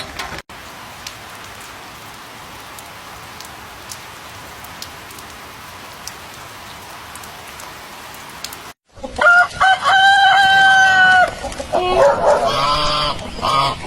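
Steady rain falls as an even hiss with occasional drips. After an abrupt cut about nine seconds in, a rooster crows loudly in one long held call, followed by more chicken calls.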